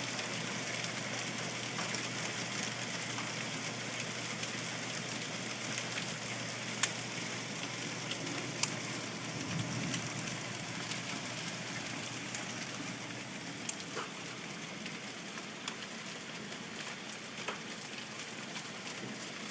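Hail storm: a steady downpour of rain with scattered sharp clicks of hailstones striking hard surfaces, a few every couple of seconds.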